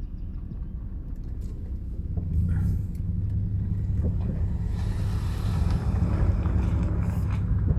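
A car driving, with a steady low rumble of engine and road noise that grows louder about two seconds in.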